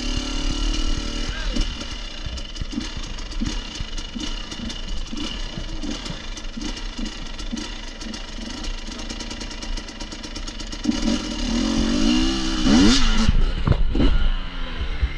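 Off-road dirt bike engine running over rough trail ground, with many short knocks and rattles throughout; near the end the revs rise and fall sharply several times.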